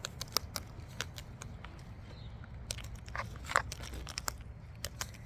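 Wild parrots cracking and chewing seed in their beaks: irregular sharp clicks and crunches.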